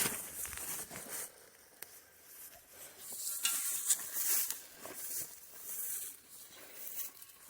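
Irregular rustling and crunching of a person moving on foot through brush and undergrowth, coming and going in uneven bursts.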